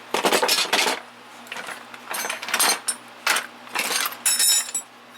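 Metal hand tools clattering and clinking as they are sorted into a toolbox drawer, in several short bursts, with a brief metallic ring near the end.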